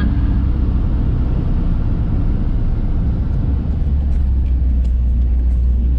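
1969 Ford F100 pickup driving on the road, heard from inside the cab: engine and road rumble with a steady low drone that settles in a little past halfway. The truck is on a road test after its carburetor rebuild.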